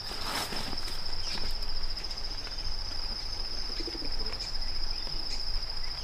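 Insect trilling steadily at one high pitch, with a few faint clicks and rustles underneath.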